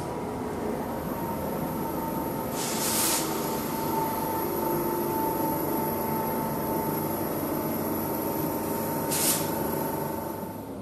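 A train running, with a steady whine through it and two short hisses, one about three seconds in and one near the end.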